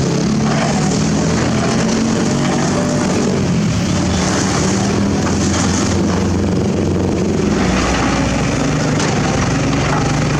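Excavator's diesel engine running steadily under work load, its pitch shifting about three-quarters of the way through.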